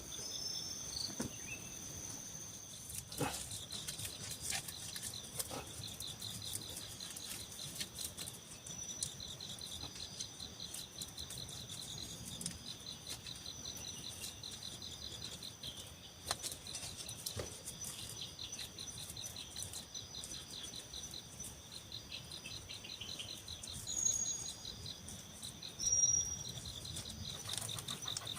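Forest insects trilling in a steady, high, rapidly pulsing chorus, with a few faint knocks and two short high calls near the end.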